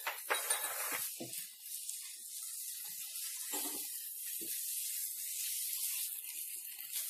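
A vegetable stir-fry sizzling steadily in a nonstick pan, stirred with a silicone spatula, which gives a few short soft scrapes against the pan.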